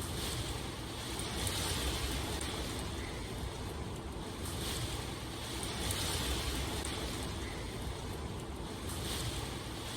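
Steady rain, a dense even hiss that swells and eases every second or two.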